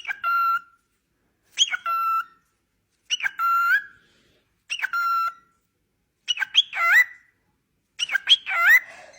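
A bird calling six times at an even pace, about one call every one and a half seconds. Each call is a short high pitched cry that drops and then holds, and the last two calls rise and fall in two parts.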